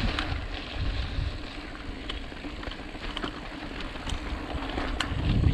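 Ibis Ripley mountain bike rolling over rock and grit: tyre noise with scattered clicks and rattles from the bike, over low wind rumble on the microphone that grows louder near the end.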